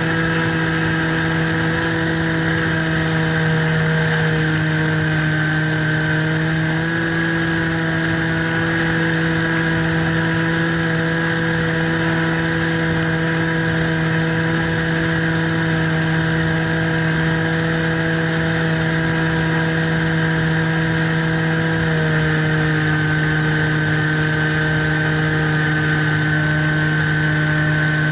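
Radio-control model plane's motor and propeller running at a steady cruise, heard from on board. Its pitch dips slightly about four seconds in, rises again a few seconds later, and drops a little with throttle near the end.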